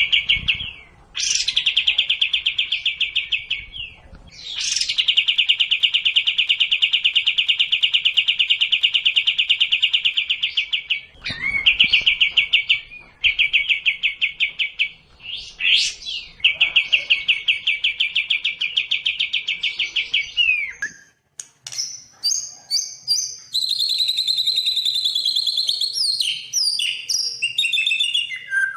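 Songbird song from a sekoci and white-rumped shama (murai batu) training recording: several long, very fast, even-pitched trills lasting a few seconds each, then a run of varied, higher whistled notes near the end.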